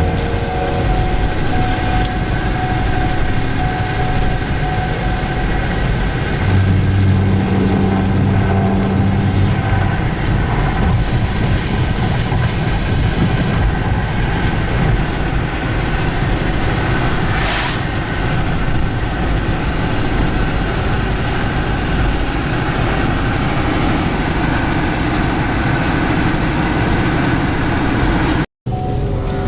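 Road and engine noise inside a moving car: a steady rumble of tyres and wind, with a deeper drone swelling for about three seconds around seven seconds in. The sound cuts out for a moment near the end.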